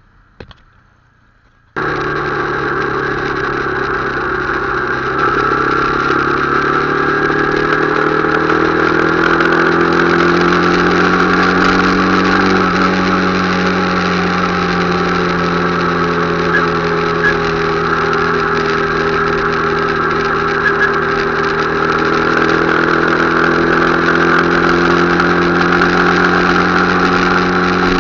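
Motorcycle engine running steadily, cutting in suddenly about two seconds in after a short click; its pitch drifts gently up and down as the engine speed changes.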